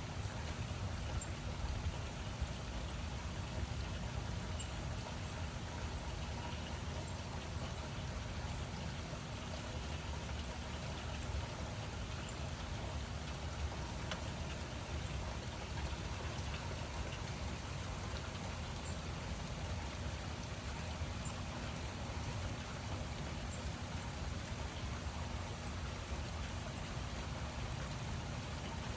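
Steady rain falling: an even hiss of many drops with scattered small drip ticks and a low rumble underneath, unchanging throughout.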